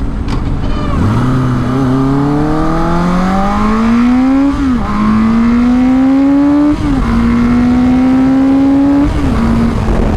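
1983 Suzuki GS1100E's air-cooled inline-four engine pulling hard under heavy but not full throttle. The revs climb steadily through each gear and dip sharply at three quick upshifts, roughly every two seconds.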